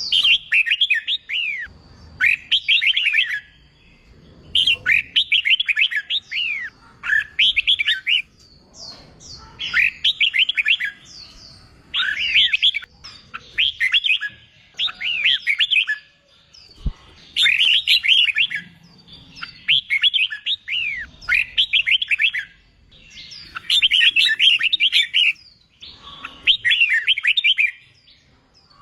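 Red-whiskered bulbul singing: a string of short, quick whistled phrases of rising and falling notes, one phrase every second or two with brief pauses between them.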